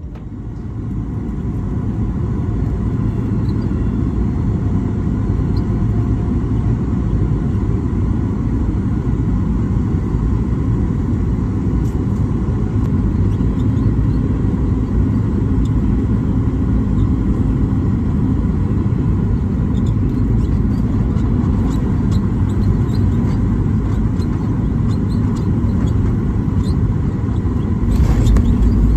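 Boeing 737 MAX 8 cabin noise on the landing approach: a steady rumble of engines and airflow heard from inside the cabin. It swells into a louder, rougher rush near the end.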